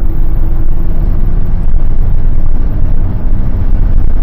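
Modified Porsche Boxster driven on track: a loud, steady rumble of engine and road noise with no clear rise or fall in pitch.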